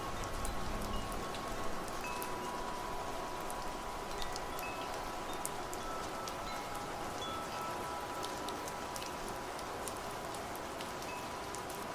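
Steady rain with scattered drop ticks, and wind chimes ringing over it: several metal tones sounding at different moments and ringing on for a few seconds each.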